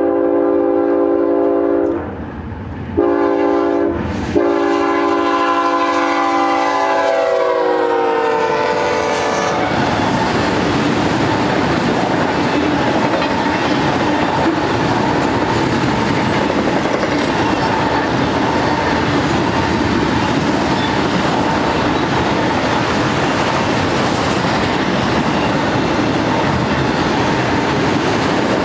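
A BNSF freight locomotive's air horn, a GE ES44C4, sounds a blast that ends about two seconds in, then a second, longer blast whose chord drops in pitch as the locomotive goes by. After that comes the steady rumble and clickety-clack of auto-rack cars rolling past on the rails.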